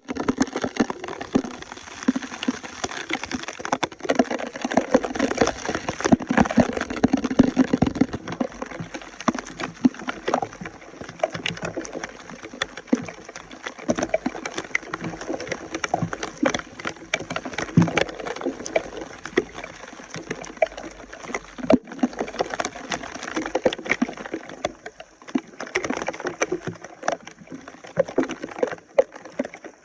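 Water splashing and sloshing, with many irregular small knocks and clatters mixed in, as debris is worked loose from a clogged drain.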